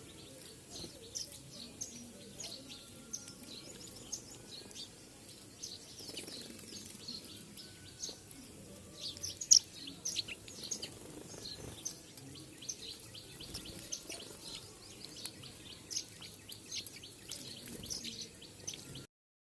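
A flock of small birds chirping busily, many short overlapping chirps with one louder chirp about halfway, cutting off suddenly near the end.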